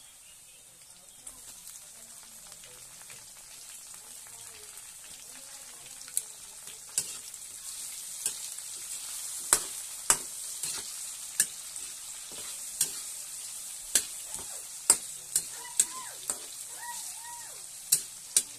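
Onions, garlic and ginger sizzling in hot oil in a wok, the sizzle growing louder after the first couple of seconds. From about six seconds in, a spatula clacks and scrapes against the pan as the mix, now with tomato wedges, is stirred.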